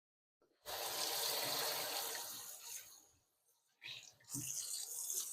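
Kitchen sink tap running while hands are washed under it. The flow of water comes in two stretches, with a short break about three seconds in.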